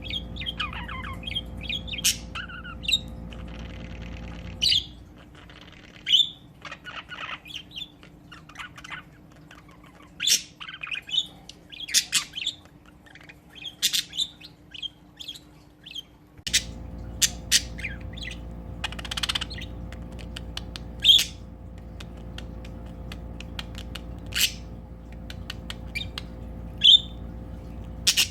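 Two pet budgies (budgerigars) chirping and squawking back and forth in quick, sharp calls, a few much louder than the rest, over a low steady hum.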